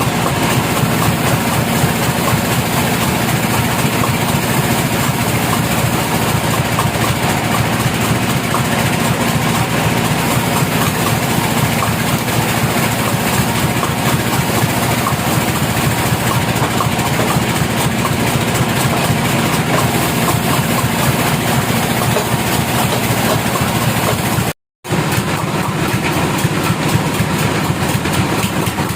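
Sawmill machinery running steadily, a constant engine-like drone. It cuts out to silence for an instant about 25 seconds in.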